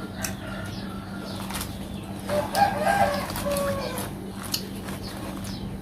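A rooster crowing once, starting about two seconds in and lasting a little under two seconds, over scattered sharp clicks and a low steady hum.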